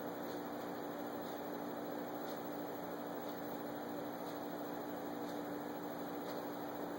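A steady electrical hum on one low pitch over an even hiss, unchanging.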